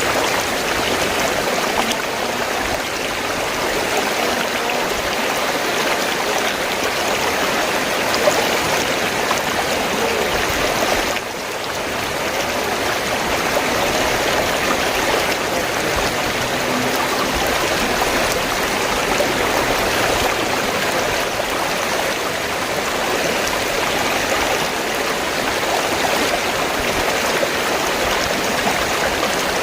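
River water flowing in a steady, continuous rush, with a brief drop in level about eleven seconds in.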